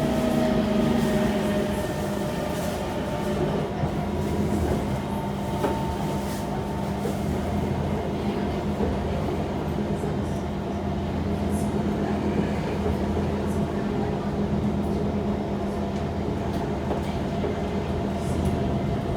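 Kawasaki C151 metro train heard from inside while running along the track: a steady rumble of wheels and running gear with a low hum and faint steady tones.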